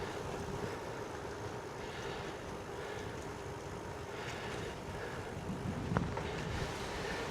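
Road bike riding into a headwind: steady wind rush over the microphone with tyre noise on the road and a faint steady hum, and a single click about six seconds in.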